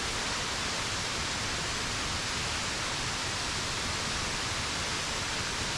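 Steady, unbroken rush of a waterfall (KareKare Falls) pouring down onto rock.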